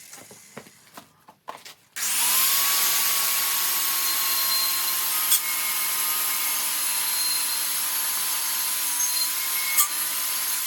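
Handheld power tool sanding rust off a brake rotor: a few clicks, then about two seconds in it starts and runs steadily with a high whine.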